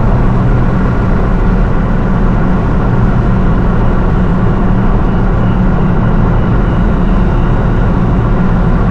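The engine and exhaust of a 750 hp Nissan R35 GT-R, a twin-turbo 3.8-litre V6, running at a steady, even pitch with no revving.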